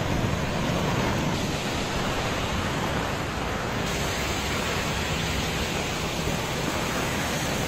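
Steady rushing noise of heavy rain and wind on a phone's microphone, with no distinct events; it turns brighter and hissier about four seconds in.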